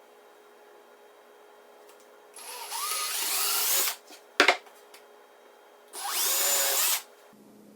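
Power drill with a 1/8-inch bit drilling through plywood in two short runs, about a second and a half and then about a second. The motor's pitch rises as it spins up each time. A sharp click comes between the two runs.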